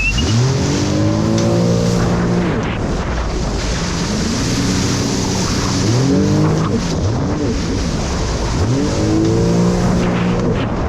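Jet ski engine revving, its pitch climbing and easing back several times as the throttle is opened and let off, over a steady rush of wind and water.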